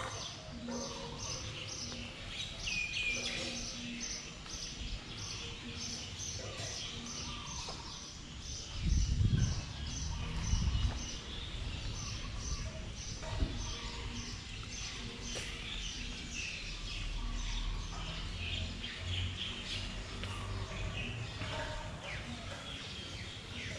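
Outdoor birdsong: birds chirping and calling in the trees, with one high note repeated steadily two or three times a second. A low rumble comes in briefly about nine seconds in.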